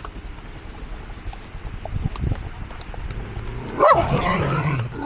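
A dog barking loudly, starting about four seconds in.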